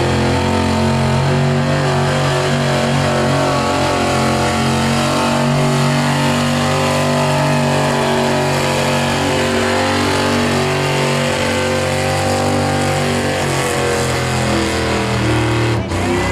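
Street diesel pickup truck's engine running hard and steady under load as it pulls the sled down the track, then cut off sharply near the end.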